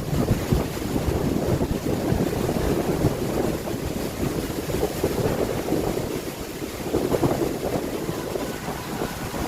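Strong wind gusting against the microphone, with waves breaking on the beach underneath.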